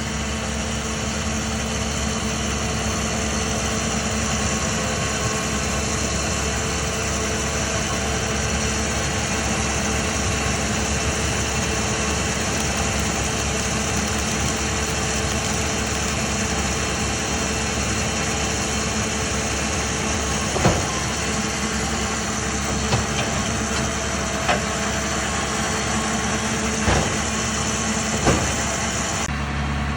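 An engine running steadily, with five sharp knocks over the last ten seconds.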